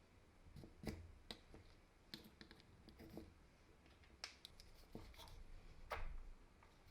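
Scattered light clicks and taps from small drill parts and tools being handled, the loudest about a second in, after four seconds and near six seconds.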